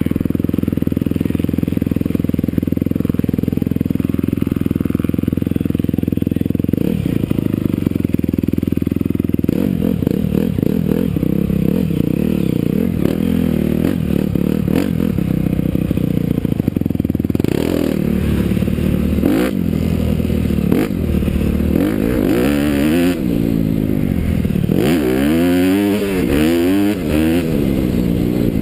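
Honda CRF250R four-stroke single-cylinder motocross engine running hard, holding fairly steady for the first several seconds. It then revs up and down repeatedly in the second half as the throttle opens and closes.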